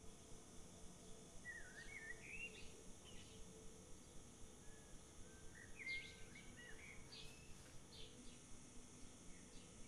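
Faint birdsong: quick, sweeping twittering calls in two bouts, about a second and a half in and again around six seconds, over a faint steady background hum.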